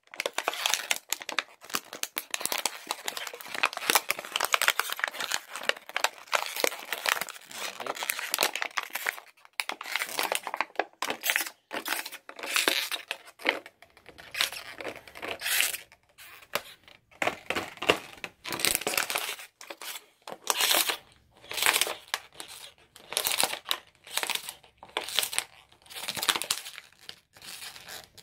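A Staffordshire Bull Terrier chewing up a plastic bottle: crinkling, crackling plastic in irregular flurries with short pauses, as the bottle is torn apart.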